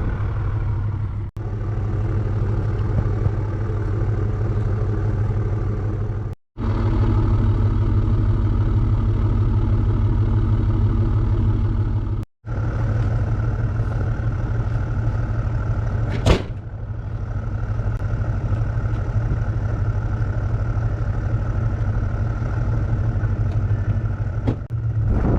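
Audi C7 S6 twin-turbo V8 idling steadily through a near-straight-piped exhaust: front resonators and rear mufflers deleted, only the centre suitcase muffler kept. The sound drops out briefly three times, and there is one sharp click about two-thirds of the way in.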